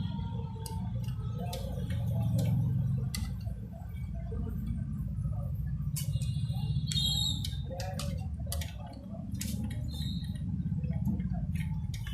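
Scattered clicks and taps of small parts and tools being handled, over a steady low hum. A short high squeak or chirp comes about six to seven seconds in.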